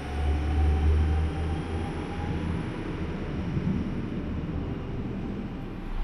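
A train moving through the station: a steady low rumble, heaviest in the first second or so, with a faint whine that rises slightly and fades about two seconds in.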